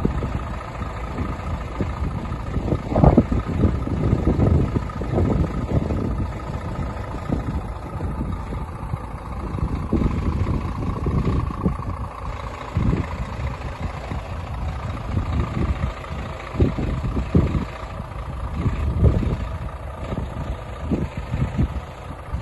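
Scania R450 truck's diesel engine idling, with uneven low rumbles rising and falling over it.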